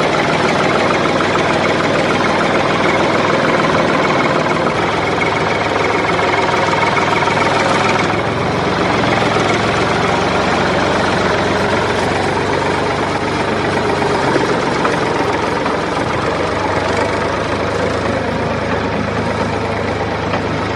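Tractor engine running steadily, its sound turning slightly duller about eight seconds in.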